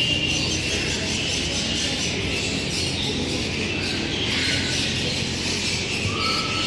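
Many birds calling and chirping, a steady chatter of short high calls over a low background hum.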